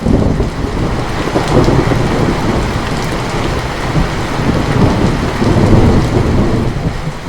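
Thunder breaking suddenly and rolling in a loud, swelling low rumble for about seven seconds, over steady heavy rain.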